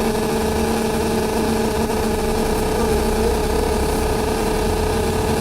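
Loud, steady drone on the upper deck of a double-decker bus, a persistent noise that keeps going nonstop over the bus's low engine rumble. A second, lower drone drops out about halfway through.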